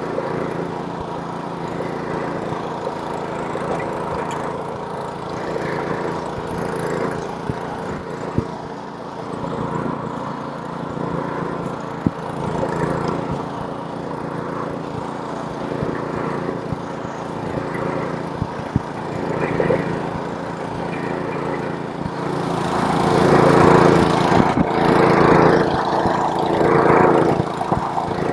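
Snowblower's small engine running steadily while clearing snow. It grows louder and fuller for several seconds near the end, with a few sharp ticks along the way.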